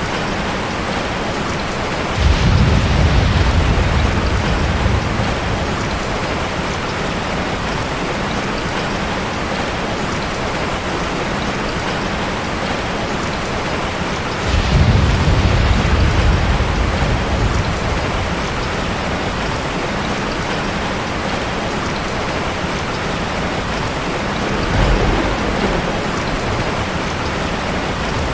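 Heavy rain falling steadily, with three low rolls of thunder: one about two seconds in, one about halfway through, and a fainter, shorter one near the end.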